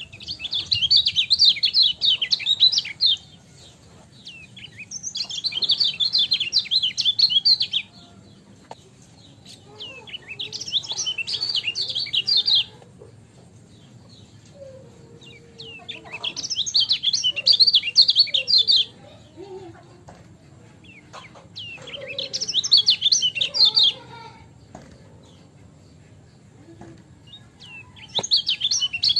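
Lemon-bellied white-eye (kecial kuning) singing loud bursts of rapid, high chattering notes, each phrase lasting about three seconds and repeating every five to six seconds, six times in all.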